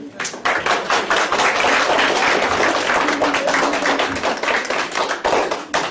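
Audience applauding: a dense run of many hands clapping that begins suddenly.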